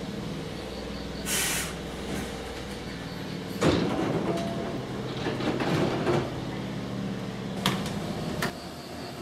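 Nose Electric Railway 7200 series electric train standing at the platform: a steady hum from its onboard equipment, a burst of air hiss about a second in, and a sliding-door clunk about four seconds in. Two sharp clicks come near the end, and the hum stops with the second.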